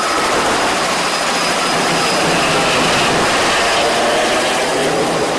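Helicopter running close by: a loud, steady rush of turbine and rotor noise with a faint whine.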